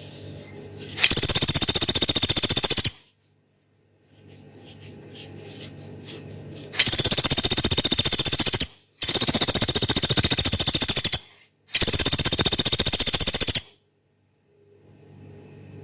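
Pelatuk beras woodpecker giving long, harsh rattling calls: four very rapid rattles of about two seconds each, the first about a second in and three more close together in the second half.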